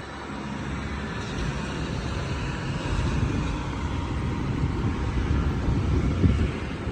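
Steady roar of road traffic, growing a little louder over the first few seconds and then holding.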